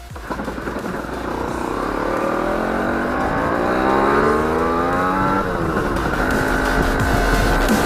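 Škoda 120's rear-mounted four-cylinder petrol engine pulling hard: the engine note climbs in pitch for about three seconds, then drops sharply and runs steadily at a lower pitch.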